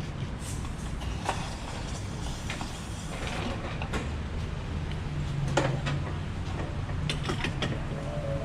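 Scattered mechanical clicks and knocks over a low steady rumble.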